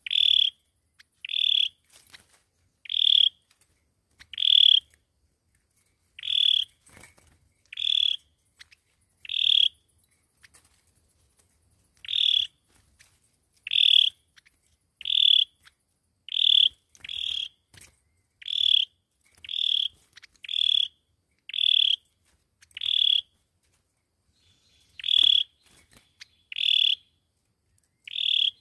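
Sâu dừa bird giving the same short, high call over and over, about once a second, with one longer pause near the end. A lure call of the kind played to draw sâu dừa to a trap.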